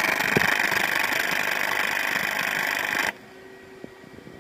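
AC TIG welding arc on aluminum, a loud steady buzz that cuts off suddenly about three seconds in as the arc is broken. The welder thinks the arc sounds like the AC is switching too slowly and wants to raise the frequency.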